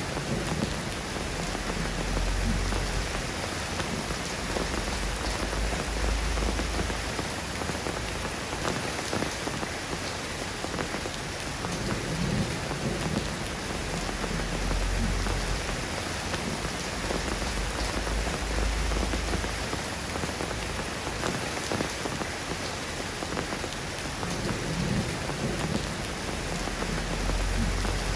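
Steady rain falling and pattering, an even hiss throughout, with a low rumble swelling up and fading several times.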